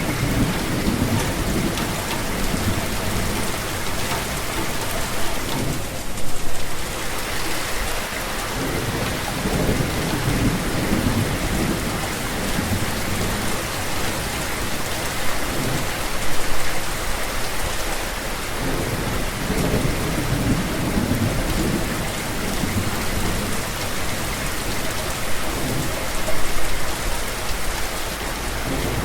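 Steady heavy rain falling on a surface, with low rumbles of thunder swelling and fading every few seconds.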